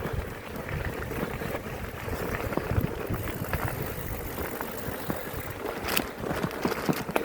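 Riding a bicycle on the road: wind buffeting the microphone over tyre noise, with scattered knocks and rattles from the bike.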